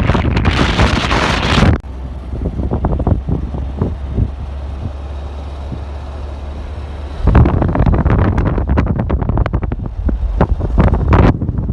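Wind buffeting the microphone: heavy low rumbling with crackles. A hissing gust comes in the first second or so, it eases for a few seconds in the middle, then picks up again about seven seconds in.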